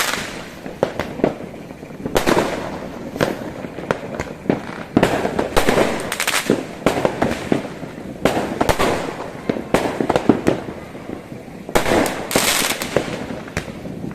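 Many fireworks going off at once over a city, a steady run of bangs and pops with thick bouts of crackling about two, five to seven, nine and twelve seconds in.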